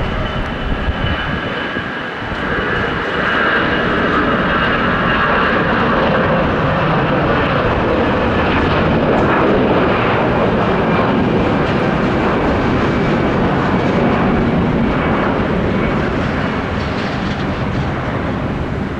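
Jet airliner's engines passing close by: a loud, steady rush that swells a couple of seconds in and then holds. A thin high whine fades out over the first several seconds.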